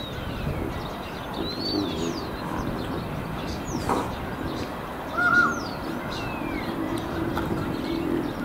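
Small birds chirping and whistling in short falling notes, with one louder, harsh short call about five seconds in, over a steady background of outdoor noise.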